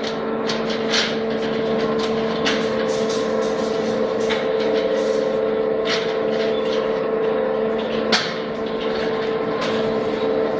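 Picket-fence-making machine running: a steady electric motor hum, with irregular sharp clicks and knocks from the material passing through it.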